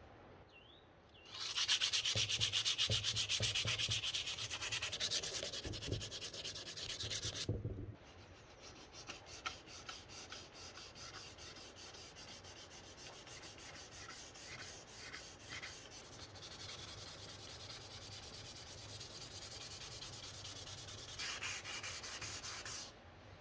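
Sanding: abrasive rubbed over a surface in quick, repeated strokes. It starts about a second in and is loud for several seconds. It then goes softer and builds up again before stopping just before the end.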